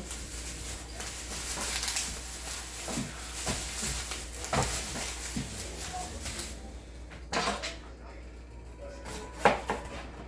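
Kitchen utensils and dishes handled during food prep: a steady rough noise for the first six seconds or so, then two sharp knocks on the counter.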